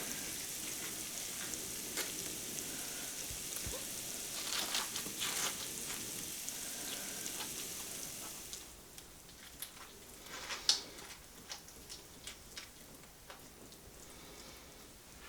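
Food frying in a pan with a steady sizzle and a few clicks from stirring. About two-thirds of the way in the sizzle drops away, leaving scattered light ticks and clicks with one sharper click.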